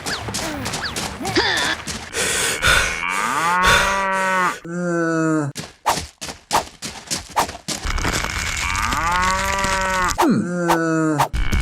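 A cow mooing: two long moos, one a few seconds in and one near the end, with a rapid series of clicks or knocks between them and a third moo starting right at the end.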